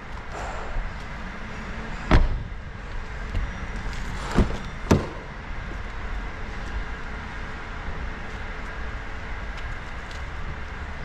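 Three sharp knocks, the first about two seconds in and a close pair a little past four seconds, over a steady background hum.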